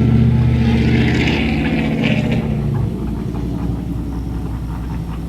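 An engine running with a steady low drone that drops away about three seconds in, leaving a lower hum.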